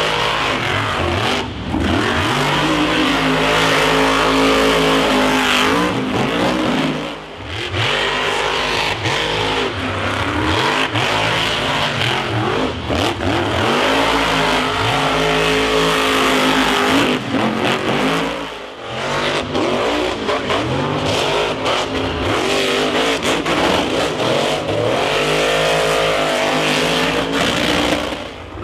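Monster truck engine revving hard again and again, its pitch climbing and falling with each burst of throttle, with a few short drops in between.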